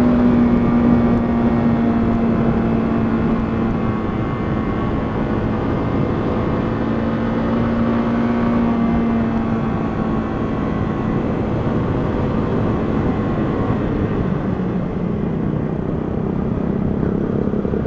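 125cc motorcycle engine running at a steady road speed under a dense rush of wind noise; its note sags slowly through the stretch.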